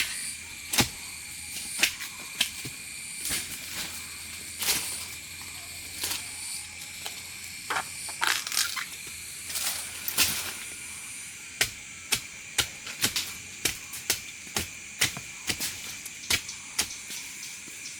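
Irregular sharp knocks and cracks, roughly one or two a second, over a steady high-pitched hum.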